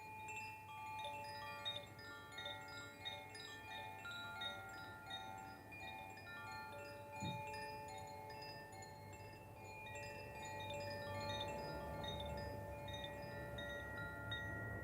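Koshi chimes ringing: many clear, bell-like tones struck in an irregular, overlapping patter, each note sustaining and blending with the next.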